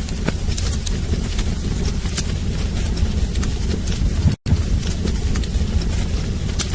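Wood fire burning in a fireplace: a steady low rumble of flames with frequent irregular crackles and pops. About two-thirds of the way through, the sound cuts out for a split second and then resumes.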